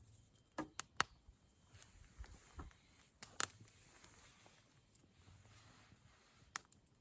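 Wood campfire crackling: scattered sharp pops and snaps over a faint hiss, a cluster of pops about a second in, two more around three seconds and one near the end.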